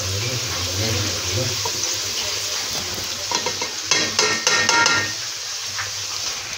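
Chopped onions with garlic and ginger sizzling steadily in hot oil in a metal pot while a steel ladle stirs them. About four seconds in there is a quick run of metallic clinks and scrapes as spices go in and the ladle works against the pot. A low hum sounds during the first second or two.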